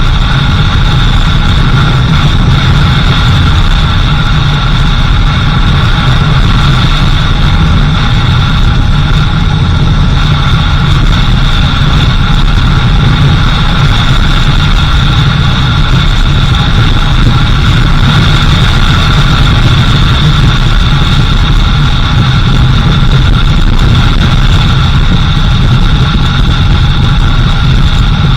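Car engine running steadily while driving, with constant road noise and a steady whine.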